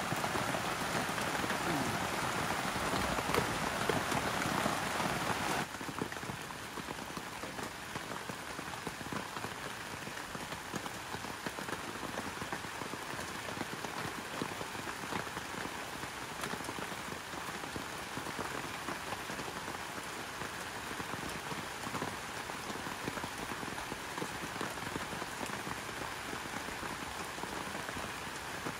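Steady rain falling and pattering on surfaces, with scattered individual drops ticking. It is louder for the first five or so seconds, then drops to a softer, even patter.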